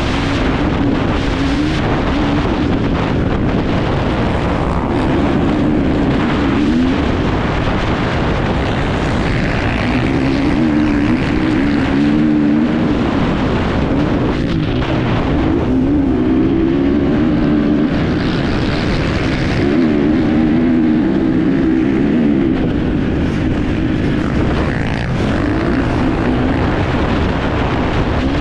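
Enduro motorcycle engine heard from on board, its revs repeatedly rising and falling as the rider works the throttle and gears, over a steady rush of noise.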